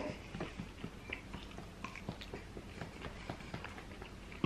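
Faint close-up eating sounds: chewing and small scattered clicks as a fork picks at whole fried red snapper, with one sharper click near the end.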